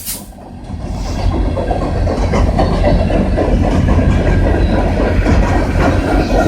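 CN freight train rolling past on the adjacent track: a steady low rumble with the clatter of wheels over the rail joints. It builds back up over about the first second.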